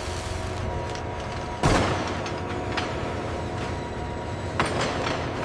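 A steady mechanical hum, with a loud clank about one and a half seconds in and a second, smaller knock near the end.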